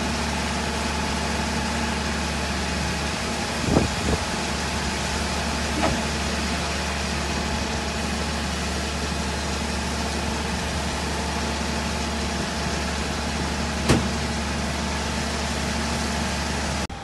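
A motor vehicle engine running steadily, a constant low hum, with three short knocks.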